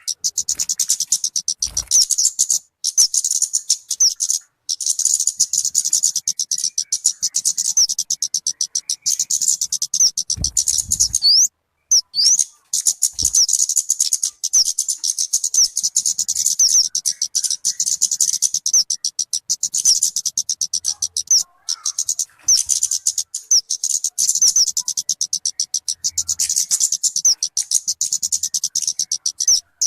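Talokan (kemade) bird calling: a continuous rapid stream of high, chirping notes, broken by a short pause about twelve seconds in.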